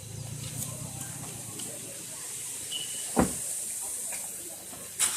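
Waterfall's steady rushing hiss. A single thump about three seconds in.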